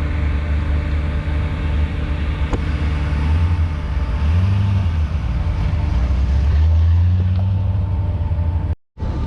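A car engine running at low revs. Its note rises briefly about four seconds in, and again, louder, for a couple of seconds around the seven-second mark.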